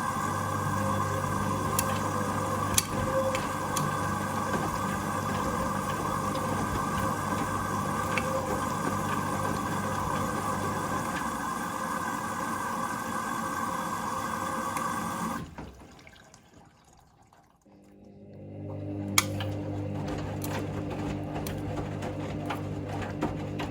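Hoover Link washing machine filling with water for its first rinse: a steady rush of water with a hum, cutting off about fifteen seconds in. After a couple of seconds of near quiet the machine starts up again with a click and a steady mechanical hum as the drum turns.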